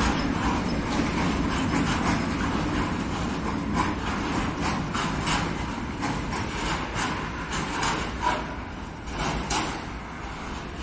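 Freight train of covered hopper wagons rolling past, with the wheels rumbling on the rails and irregular knocks and clanks. It fades gradually over the last few seconds as the tail of the train pulls away.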